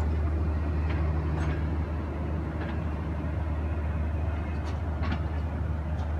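Pakistan Railways passenger coaches rolling slowly past a platform, over a steady low hum, with wheels clicking on the rails now and then, about five clicks at uneven spacing.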